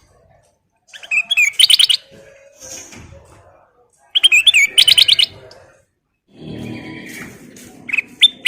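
Kutilang emas, a bulbul, singing in two loud bursts of quick, bright repeated notes, about a second in and again at about four seconds. A softer, lower noise follows in the last two seconds, with a short call near the end.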